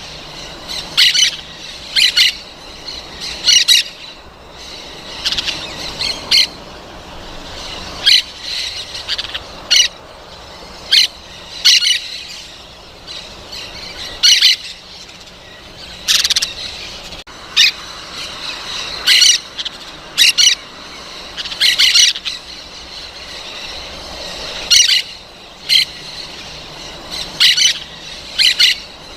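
Parrots calling with short, shrill squawks, often two or three in quick succession, repeated every second or two.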